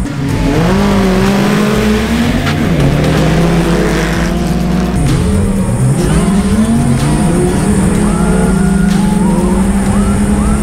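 Nissan Patrol Y60 off-road race truck's engine heard from inside the cab, revving up and dropping back again and again as it is driven hard, with a few sharp knocks from the body and suspension.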